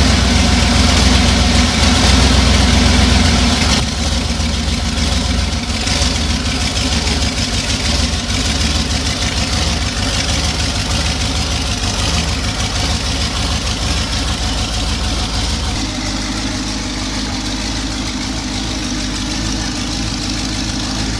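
V8 engine of a Cheetah chopper trike idling steadily while running with two dead cylinders that are not firing. It gets somewhat quieter about four seconds in, and its deepest part fades near the end.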